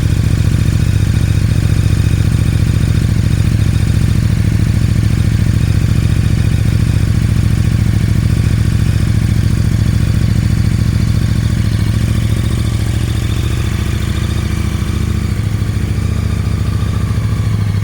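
2018 KTM 1290 R's V-twin engine idling steadily during warm-up after a cold start.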